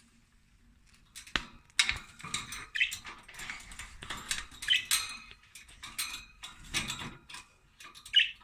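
Budgerigars chirping in short squeaky calls, mixed with irregular clicks and taps, starting about a second in.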